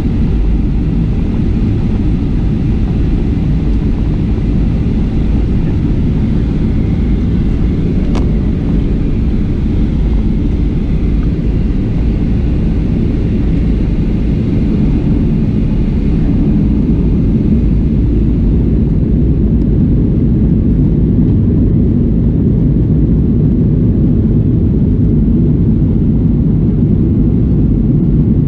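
Steady low rumble inside the cabin of a Boeing 737-700 from a window seat, the sound of its CFM56-7 jet engines and airframe as the airliner moves on the ground before takeoff, growing slightly louder from about halfway through.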